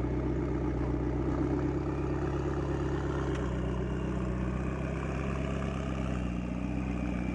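White McLaren supercar's twin-turbocharged V8 idling steadily.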